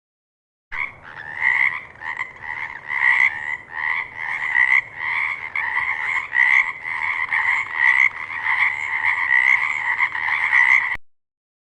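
Frog croaking, a steady run of pulsed calls about twice a second, starting about a second in and cutting off abruptly near the end.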